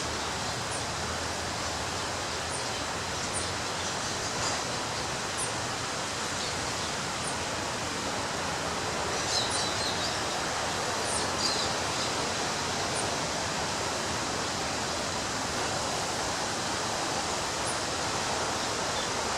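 Surf breaking on a beach: a steady, even rush of waves, with a few brief high chirps over it.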